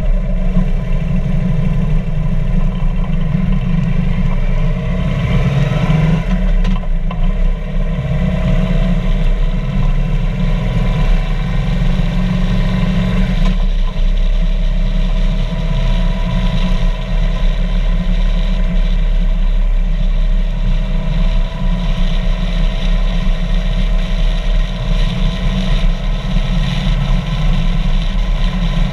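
2015 Harley-Davidson Street Glide's V-twin engine running steadily while riding, with its pitch shifting a little between about five and nine seconds in.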